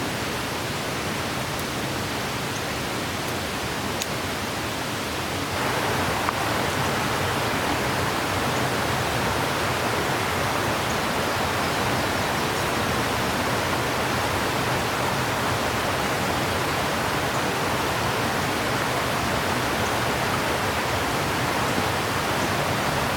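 Steady rushing of water, an even hiss with no distinct events, stepping up louder and brighter about five and a half seconds in.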